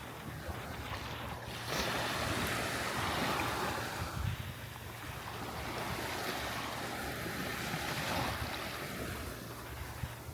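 Sea waves washing up the beach, a rushing wash that surges about two seconds in and eases off toward the end, with wind rumbling on the microphone.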